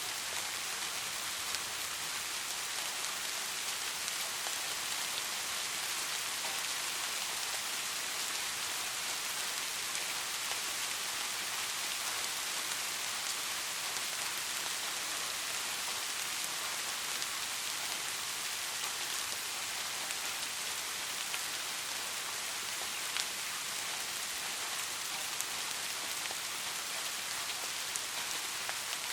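Steady rainfall: an even hiss of rain with the patter of individual drops ticking now and then.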